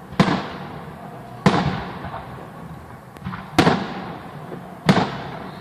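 Fireworks salute shells bursting overhead: four loud bangs about a second or two apart, each followed by a fading echo, with a fainter pop between the second and third.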